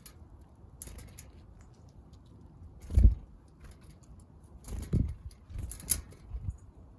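Small backyard birds at a feeder: scattered pecking, scuffling and wing flutters. A dull thump about three seconds in, and a few more thumps with sharp clicks near the end.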